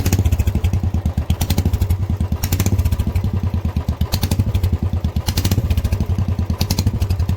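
Royal Enfield Bullet's single-cylinder engine idling with its exhaust pipe removed: a loud, even run of exhaust pulses, with sharp clattering ticks over it.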